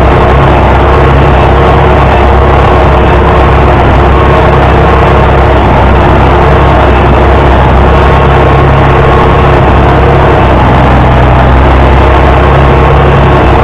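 International Harvester 560 tractor engine running loud and steady, with no change in speed.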